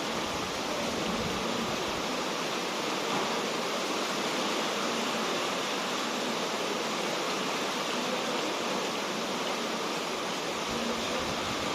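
Steady, even rushing noise with no separate events, like running water or a hiss.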